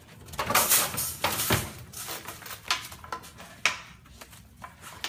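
A run of knocks, scrapes and rustles as a trapped bird is caught by hand indoors. It is loudest in the first second and a half, with single sharp knocks later.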